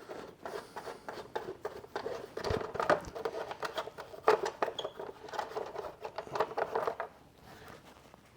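Hands working on a riding mower: a busy run of clicks, taps and scrapes with one duller knock about two and a half seconds in, stopping about seven seconds in.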